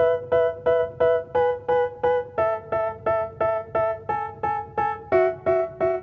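Background music: a keyboard, piano-like, playing short repeated chords at about three a second, changing chord about two seconds in and again about five seconds in.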